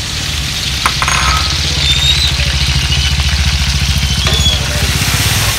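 Coconut milk, dark sugar and salt sizzling in hot coconut oil in a metal wok as a wooden spatula stirs it, under a loud, steady low rumble with a fast pulse. Birds chirp faintly now and then.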